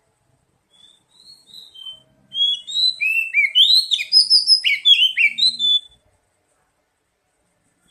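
Oriental magpie-robin (kacer) song: a few faint whistled notes, then a loud, rapid run of varied whistles and chirps for about three seconds that stops about six seconds in.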